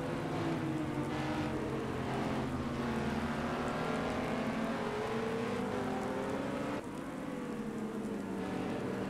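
Car engines running steadily, their pitch wavering slightly up and down over a rushing noise, with a sudden drop in level about seven seconds in.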